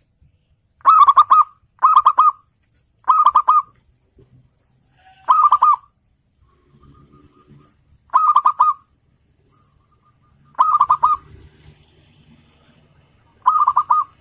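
Zebra dove (perkutut) singing: seven short, rapidly trilled coos, each about half a second long, repeated at irregular intervals of one to three seconds.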